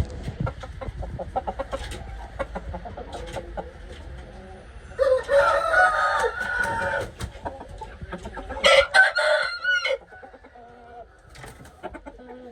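Roosters crowing twice, about five seconds in and again near nine seconds, with short clucking calls before.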